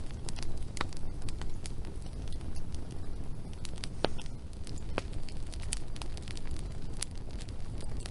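Wood fire burning, crackling with irregular sharp pops over a steady low rumble.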